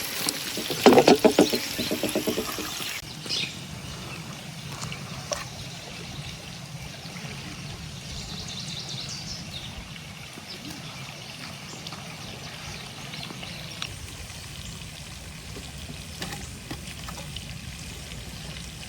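Potatoes, peppers and carrots frying in hot oil in a pan over a campfire: a steady sizzle with a few small crackles, louder and busier in the first few seconds.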